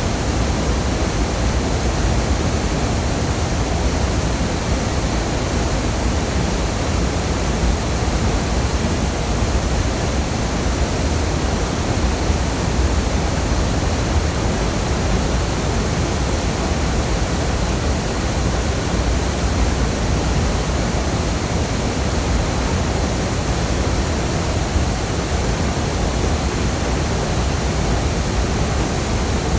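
Waterfall: a loud, steady rush of falling water, deep and even throughout.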